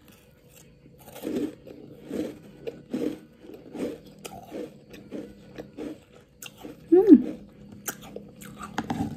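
Close chewing of a mouthful of chocolate-coated Koko Krunch cereal and cookie pieces, crunching in a steady rhythm of a little over one chew a second; the cereal and cookies are still crisp. About seven seconds in there is a short hummed vocal sound.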